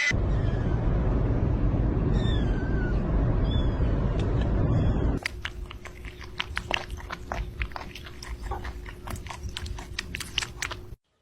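A loud, low rumbling noise for about five seconds, with a few faint chirps over it. After a cut comes a pet chewing: a fast, irregular run of crisp clicks over a steady low hum that stops abruptly near the end.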